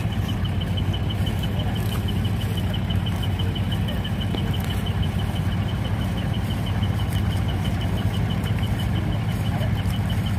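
A vehicle engine idling steadily, with a faint high-pitched tone pulsing rapidly, several times a second.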